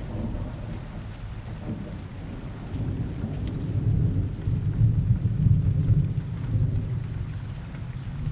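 Rain ambience: steady rain with a low rumble of thunder that swells about halfway through and then fades.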